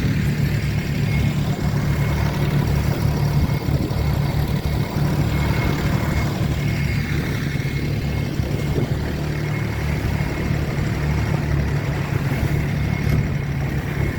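A boat's engine running steadily, a low drone with a thin high whine above it.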